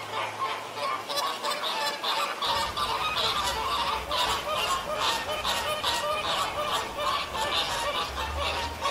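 A flock of flamingos honking and gabbling, many short goose-like calls overlapping without a break.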